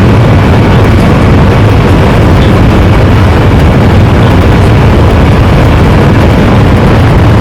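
Boeing 737 MAX 9's CFM LEAP-1B turbofan engines running at high power, heard inside the cabin as a loud, steady noise with a heavy low rumble, typical of the takeoff roll and climb.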